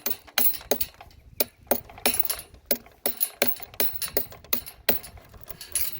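Loose metal pieces clinking and jangling as they are handled, in a train of sharp, irregular clinks, about two or three a second.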